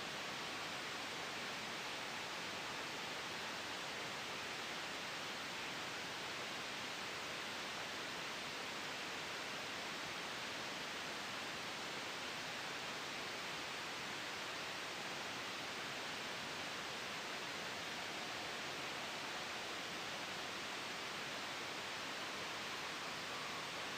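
Steady white noise for sleep: an even, unchanging hiss with no gusts or sudden changes.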